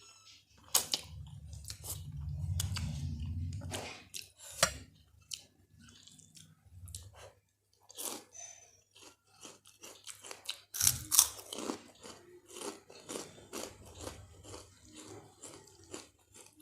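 Close-miked chewing of spicy Maggi instant noodles mixed with Kurkure snacks, with irregular sharp crunches, loudest about eleven seconds in. A low rumble runs from about one to four seconds in.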